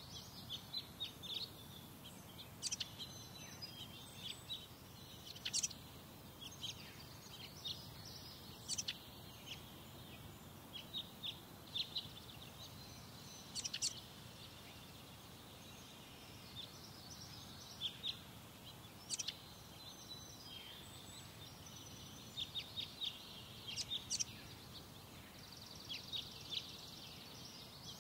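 Birds chirping: many short, high calls scattered throughout, over a low steady background noise.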